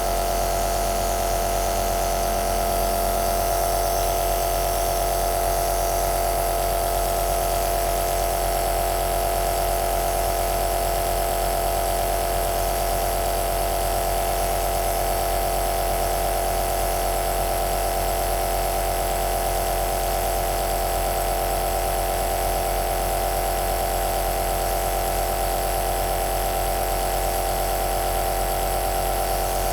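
Electric nebulizer machine running steadily: a constant hum with several steady tones over an even hiss, unchanging throughout.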